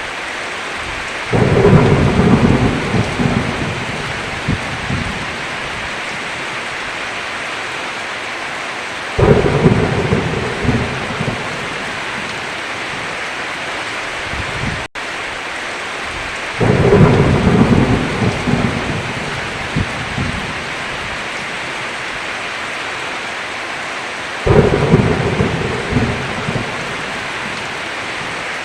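Steady heavy rain with thunder: four rumbles of thunder, about eight seconds apart, each breaking in suddenly and rolling away over a few seconds. The rain cuts out for an instant about halfway through.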